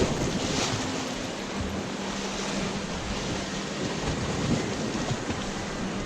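Sea waves washing against the shore, with wind buffeting the microphone. A faint steady low hum runs underneath.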